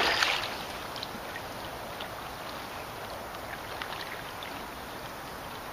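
Water sounds around a kayak on the move: light splashing and a few faint drips against a steady hiss, a little louder right at the start.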